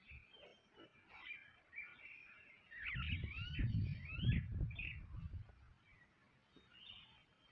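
Small birds chirping, a run of quick rising-and-falling chirps and twitters. From about three seconds in, a low rumble, the loudest sound, runs for nearly three seconds and then stops.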